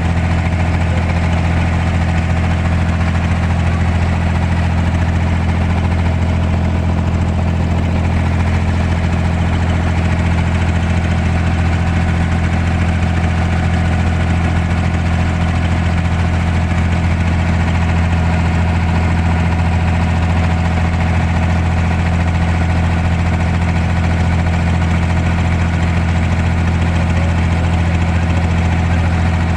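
Boat engine running steadily: a constant low drone that does not change in pitch or level.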